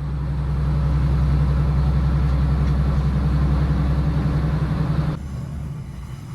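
Class 156 diesel multiple unit's underfloor diesel engine heard from inside the carriage, a steady low drone that drops away suddenly about five seconds in as the engine throttles back.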